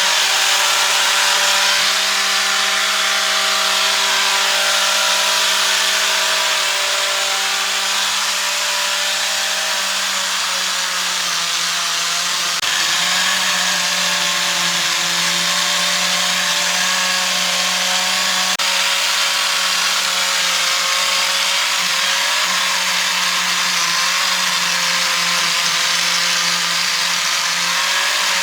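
A power tool running steadily with a constant hum, most likely cutting or shaping wood; its pitch shifts slightly about ten seconds in.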